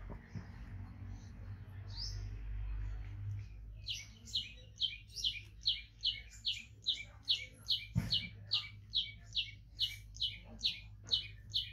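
A bird repeating one short, high chirp over and over, about two and a half times a second, starting about four seconds in. A single sharp knock sounds about eight seconds in.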